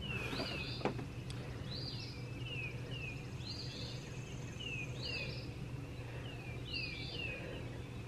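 A songbird singing one short phrase over and over, about every second and a half: a higher note followed by two or three quick falling whistles. A faint steady low hum sits beneath it.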